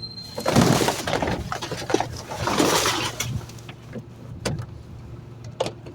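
Trash being emptied into a rear-loading garbage truck's hopper, in two loud spells of crashing and rattling with scattered knocks after, over the truck's low steady running.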